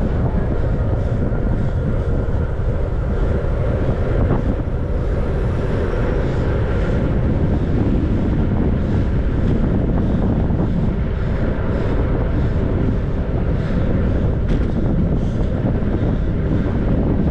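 Wind buffeting the microphone of a camera riding on a moving bicycle: a loud, steady low rumble.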